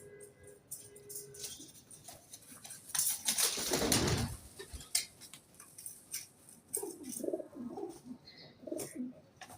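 Pigeons cooing: a series of low coos in the second half. About three seconds in, a louder rushing whoosh lasts a second or so.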